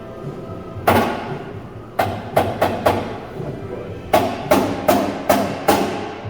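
About ten sharp hammer blows in three irregular groups: one, then four in quick succession, then five more, each with a short ring. Background music plays underneath.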